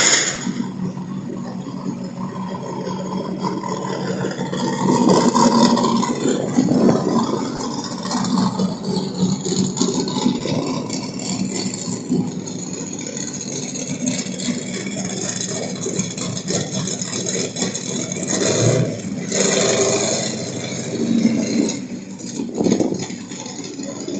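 A 1995 Dakota pickup truck's engine running as the truck is driven, its engine note rising and falling, with rattles.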